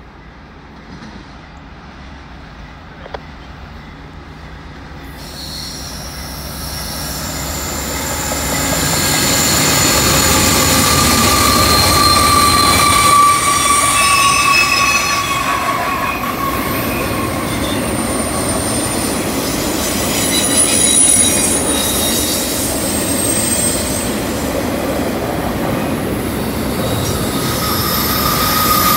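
CN double-stack intermodal freight train passing on a curve. The diesel locomotives' engines grow louder over the first ten seconds or so. The container cars then roll by with their wheels squealing on the curve in several high, steady tones that come and go.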